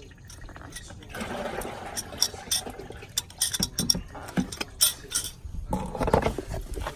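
Clattering from objects being handled while spilled engine oil is cleaned up: a run of sharp clicks and knocks, with spells of rustling or scrubbing about a second in and again near the end.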